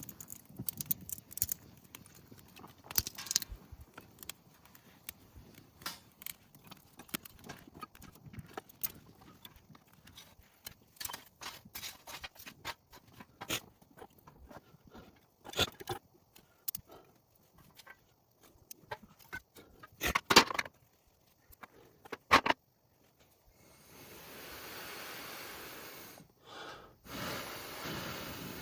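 Scattered sharp clicks and scrapes of hands working with fire-lighting gear and tinder. From about 24 seconds in, a person blows steadily on smouldering tinder in long breaths with short pauses, to coax an ember into flame.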